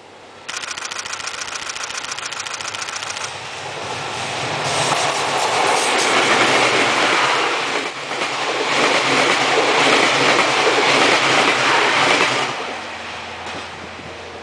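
A locomotive horn sounds for about three seconds, then a locomotive-hauled passenger train passes at speed, the rush of wheels and coaches building, peaking twice and fading near the end.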